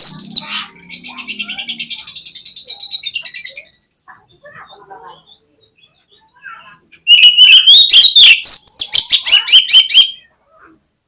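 Oriental magpie-robin (kacer) singing in loud bursts: a rapid chattering run of high notes in the first few seconds, a lull with a few faint calls, then another loud burst of fast notes and whistles from about seven seconds that stops suddenly near ten seconds.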